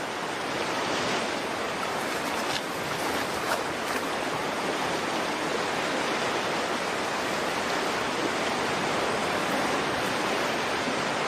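Steady rushing of a salmon stream's water, with a couple of brief splashes a few seconds in.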